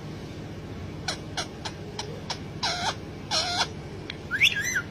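Pet parrot vocalising: a few quick clicks about a second in, then two short pitched calls in the middle, and a rising call near the end.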